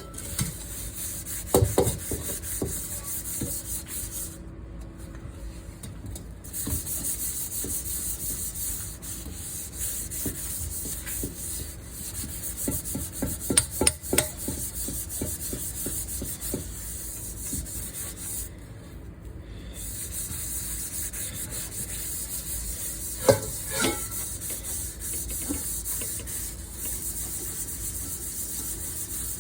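Cookware being scrubbed by hand: a steady rubbing scrub that pauses briefly twice, with a few clinks and knocks of the dishes.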